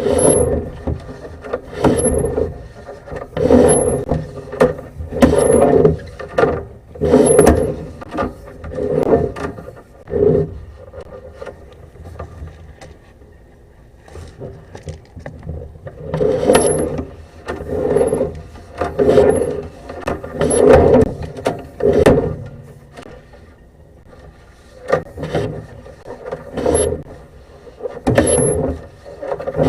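Sewer inspection camera's push cable and reel rattling and clicking in repeated pushes, about one every one and a half to two seconds, as the cable is fed down the drain line. The pushes pause briefly twice.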